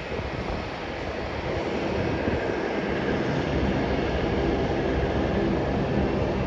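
Jet engines of an Airbus A321 freighter running steadily at a distance, the even rushing sound slowly growing louder.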